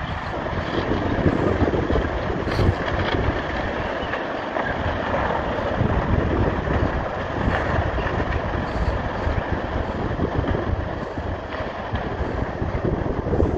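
Wind buffeting the microphone: a steady rushing noise that rises and falls in gusts.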